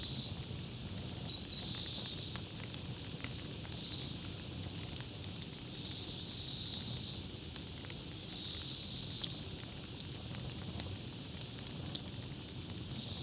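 Campfire crackling, with scattered sharp pops and clicks over a steady low rumble of burning wood; a few short bird chirps come about a second in, and a sharp pop stands out near the end.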